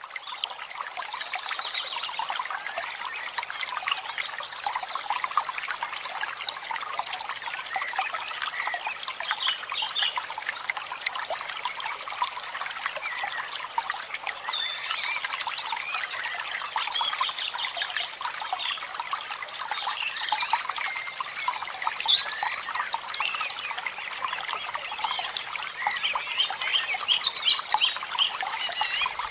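Water trickling steadily, with many small birds chirping and calling over it.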